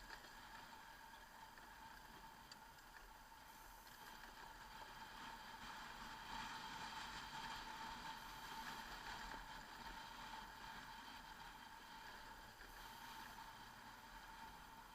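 Faint, steady drone of a motorcycle being ridden: a constant engine hum with wind noise, swelling slightly about halfway through.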